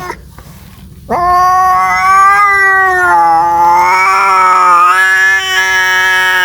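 Domestic cat giving a long, drawn-out yowl, the caterwaul of a cat calling for a mate. It starts about a second in with a quick upward swoop, then holds with a slightly wavering pitch.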